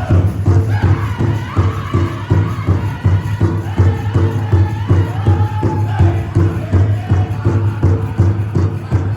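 Powwow drum group: a large shared drum struck in a steady, fast unison beat, with several voices singing a high-pitched powwow song over it.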